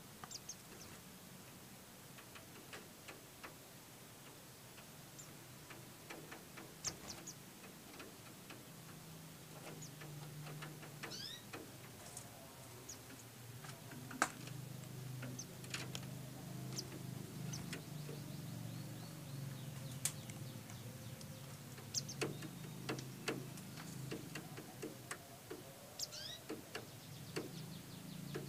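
Small white-eye (pleci) birds giving scattered short, high chirps among faint clicks, over a low hum that gets louder about a third of the way in.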